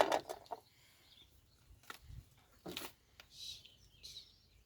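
Birds chirping a few times, with sharp clicking knocks at the start and again partway through.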